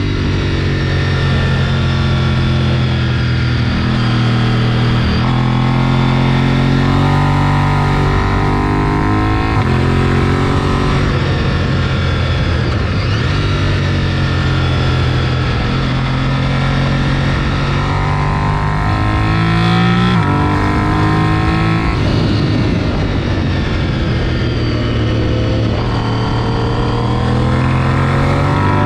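Sport motorcycle engine at track pace, revving hard and changing pitch every second or two as it is shifted through the gears and throttled on and off, over steady wind rush.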